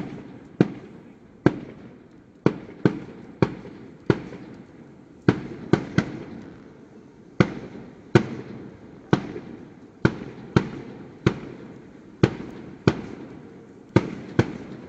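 Aerial firework shells bursting in a continuous barrage: sharp bangs coming irregularly, more than once a second. Each bang is followed by a fading low echo.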